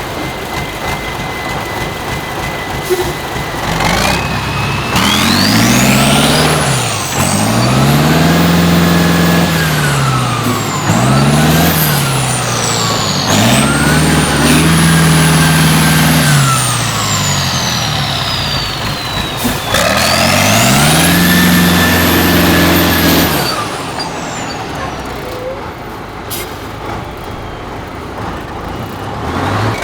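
Tatra 148 truck's air-cooled V8 diesel revving hard in about five surges, each climbing and then falling in pitch, with a high whine rising and falling along with the revs. It settles back to a lower, steadier running near the end.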